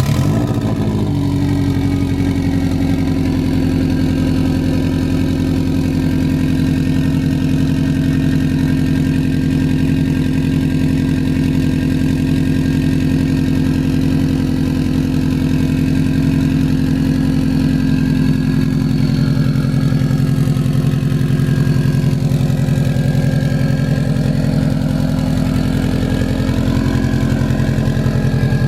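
Car engine idling steadily just after being started.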